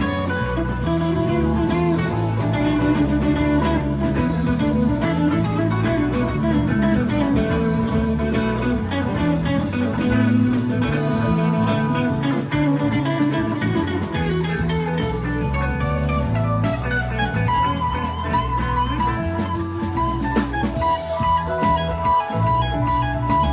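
Live rock band playing an instrumental jam: electric guitar soloing over a moving bass line, with a long held guitar note in the last few seconds.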